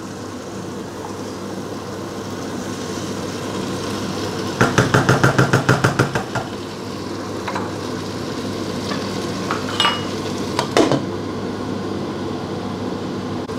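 Chicken pieces and spice paste sizzling in a non-stick pan while being stirred with a wooden spoon, with a quick run of spoon strokes against the pan about five seconds in. A few single knocks follow in the second half as the glass lid goes back on.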